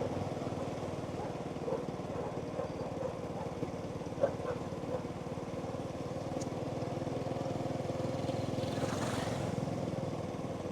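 Small motorbike engine running steadily while riding along a road.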